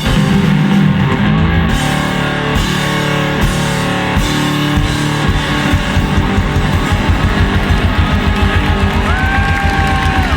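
Loud rock music with electric guitar and fast, driving drums.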